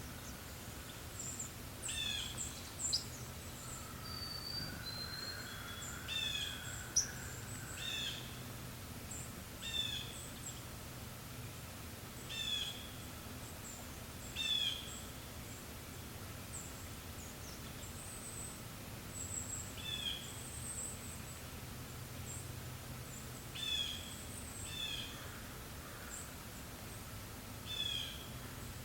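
Forest birds calling: one bird repeats a short, quickly stepping phrase every two seconds or so, with thin high chirps from others in between, over a steady soft breeze.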